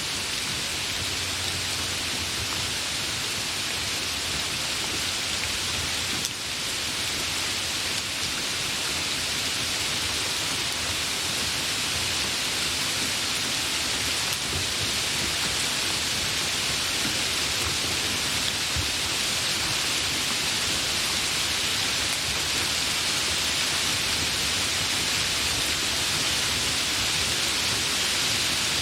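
Steady rain falling, a dense, even hiss that briefly dips about six seconds in.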